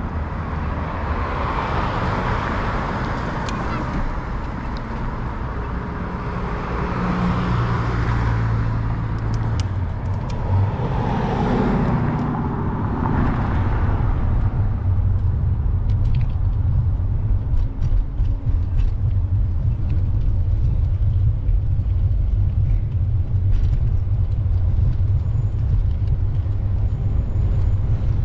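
Street traffic, with three or four cars passing in the first half over a steady low rumble.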